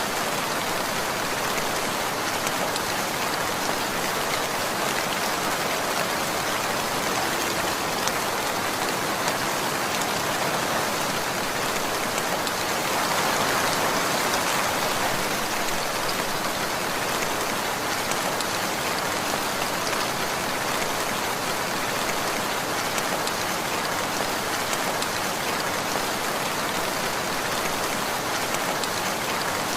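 Steady rainfall, a dense even patter of many drops landing on surfaces, swelling slightly about halfway through.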